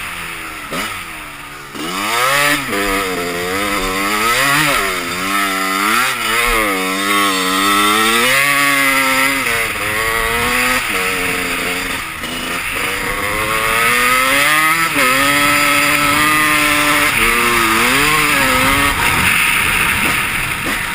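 Two-stroke Honda CR250 dirt bike engine revving hard, its pitch climbing and falling again and again as the throttle is worked, with a steadier stretch about two-thirds of the way through.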